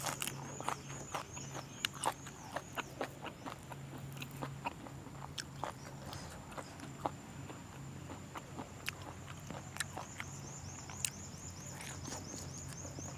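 Close-up chewing and mouth clicks of someone eating fermented pork (naem) with raw garlic and chilli: a string of small, irregular wet clicks and crunches. Behind it runs a steady high-pitched tone with quick repeated chirps, thickening near the end.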